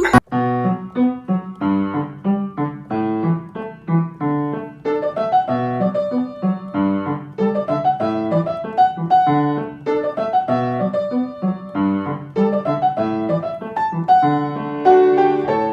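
Piano music: a steady run of struck notes.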